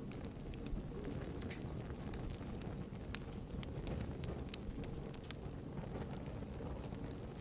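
Wood fire burning in a fireplace: a steady low rush of flames with scattered sharp crackles and pops from the burning logs.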